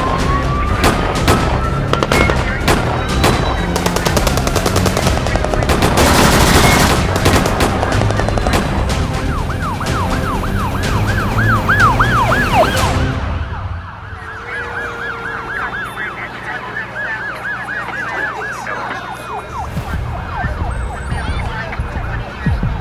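Action sound effects: rapid gunfire over a low vehicle engine rumble, then a police siren in quick rising-and-falling sweeps, quieter after about halfway through.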